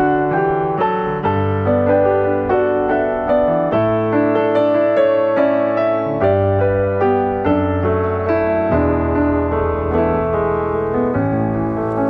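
Background piano music: a gentle melody of repeated struck notes over held bass notes.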